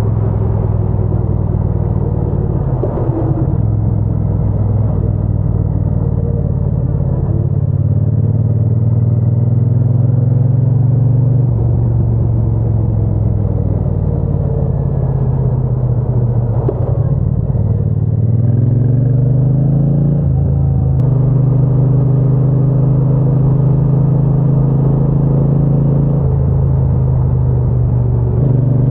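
Triumph Bonneville T120's parallel-twin engine and exhaust on the move, a steady cruising note. A little past the middle the note drops as the throttle eases, then climbs again, breaks off briefly and settles back to a steady cruise.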